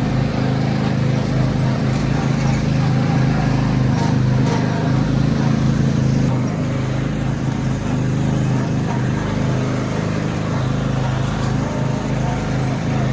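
Tractor engine running steadily with a continuous low drone, as the tractor is driven along.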